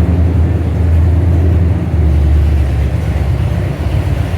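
Car engines running nearby, a steady low rumble.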